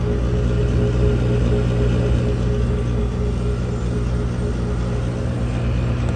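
Gas package unit heating section running: the draft inducer motor hums steadily with the burners lit, and the blower has not yet come on.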